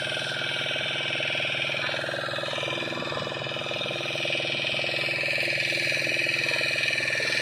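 An engine running steadily: a continuous, even drone that grows slightly louder near the end.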